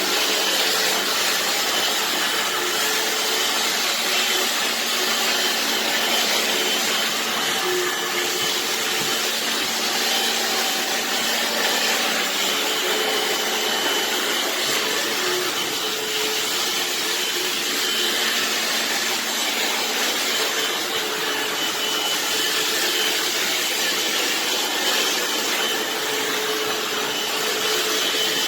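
Vacuum cleaner motor running with a steady, even whir.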